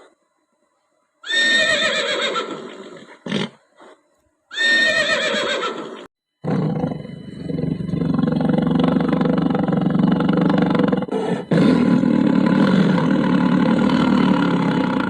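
A horse whinnying twice, each call falling in pitch, with a short snort between. About six seconds in, a long, steady, rough animal sound begins and continues without a break.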